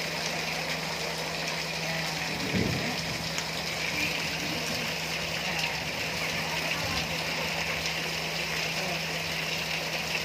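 Steady heavy rain with a stream of rainwater pouring from a roof drain and splashing onto wet concrete and into a tub, over a steady low hum. A brief low thump comes a few seconds in.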